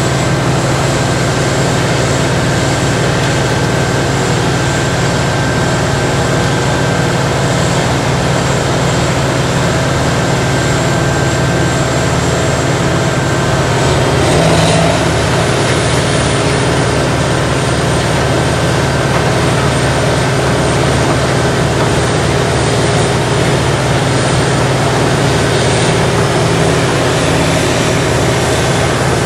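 Morbark tracked horizontal grinder running under load: a loud, steady machine drone with a high whine over it. About halfway through the sound swells briefly, and the whine rises a little in pitch afterwards.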